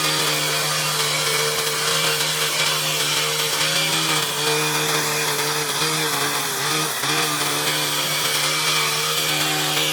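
A small engine or power tool running steadily, its pitch sagging briefly about seven seconds in.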